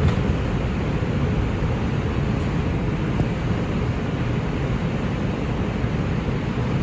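Steady low rumble and hiss inside an R142 subway car of the New York City Subway.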